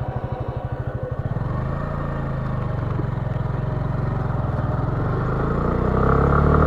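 Motorcycle engine idling with an even beat, then pulling away about a second and a half in and accelerating, its pitch rising and louder near the end.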